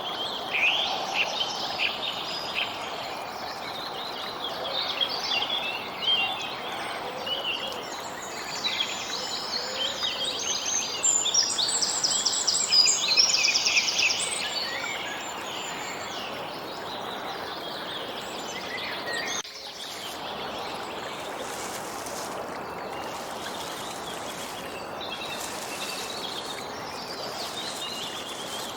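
Several songbirds chirping and trilling over a steady background hiss. The birdsong is busiest about a third of the way through and thins to scattered calls in the second half.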